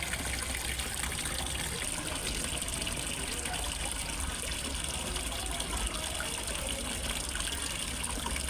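Water falling steadily into a fish pond from a waterfall, an even splashing and trickling over a low steady rumble.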